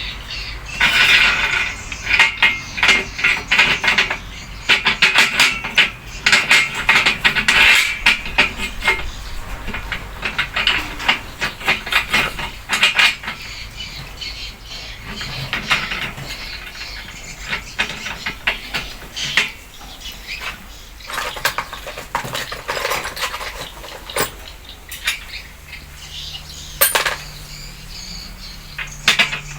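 Metal clinking and scraping: many quick clattering strikes, dense through the first half, then sparser, with one sharp click near the end and a low hum starting late on.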